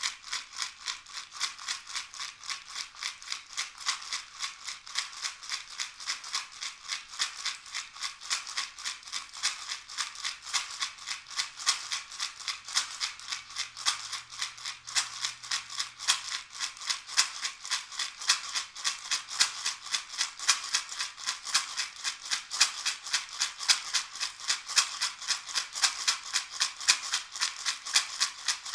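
A hand rattle or shaker shaken in a fast, even rhythm, about three to four shakes a second, with a dry, hissing rattle.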